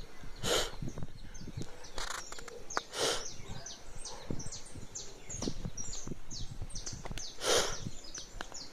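Birds chirping in many short, falling high notes. Three brief rushing bursts of noise come near the start, about three seconds in, and about seven and a half seconds in.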